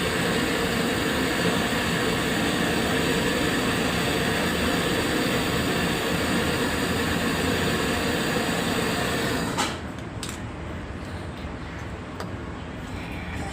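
A machine running steadily, a loud hum with several steady tones, cuts off abruptly with a click a little under ten seconds in; a fainter background noise with a few light clicks follows.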